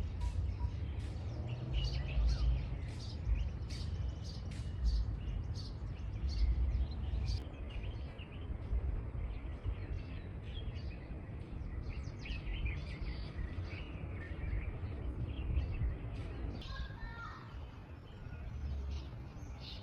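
Small birds chirping over and over in quick short calls, over a strong, uneven low rumble of outdoor noise.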